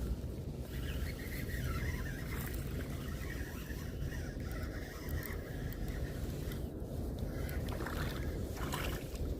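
Steady low rumble of wind and water around a kayak on a pond, with a few light clicks scattered through it.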